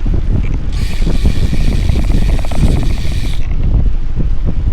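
Wind buffeting the microphone on a moving bicycle, with the rear hub's freewheel ticking rapidly for about two and a half seconds from about a second in as the rider coasts.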